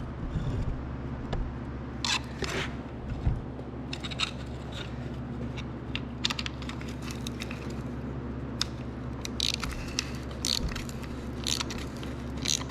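Irregular light clicks and scrapes as a piston ring compressor is fitted and tightened around a Kohler K241 piston and its new rings, over a steady low hum.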